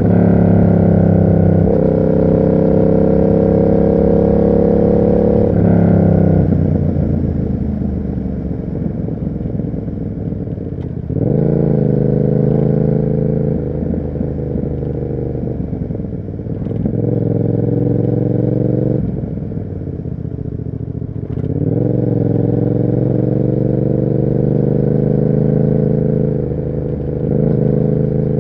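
Yamaha MT-07's parallel-twin engine through an SC Project aftermarket exhaust, ridden under load. The note climbs as it accelerates, dips sharply at each upshift about a couple of seconds apart, and twice falls away as the throttle is rolled off and the bike slows.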